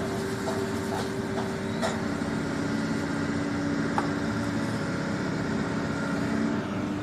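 A motor vehicle's engine running steadily, a low, even hum with a few faint clicks over it.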